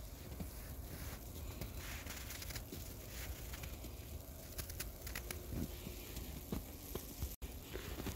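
Footsteps crunching in snow, irregular short crunches over a low rumble, with a brief gap in the sound near the end.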